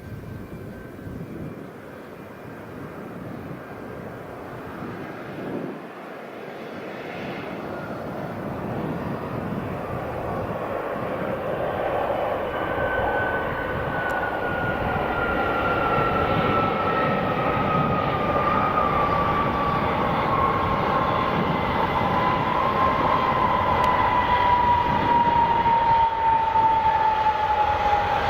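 Boeing 777-200ER airliner on landing approach, its jet engine noise growing steadily louder as it nears. A clear engine whine comes in about halfway through and slowly falls in pitch as it passes overhead.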